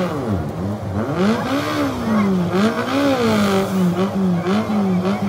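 Off-road 4x4 engine revving hard in repeated surges, its pitch rising and falling about once a second.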